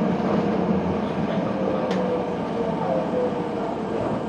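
Electric commuter train running on the rails, heard from inside at the front car, with a motor whine that falls gently in pitch as it slows and a single sharp click about two seconds in.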